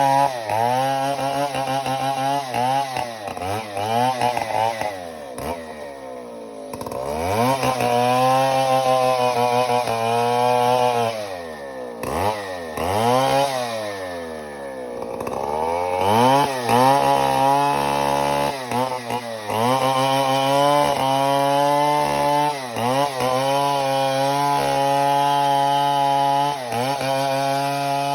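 Large two-stroke chainsaw cutting timber, its engine pitch dropping sharply and climbing back again and again as the chain loads up in the wood and frees.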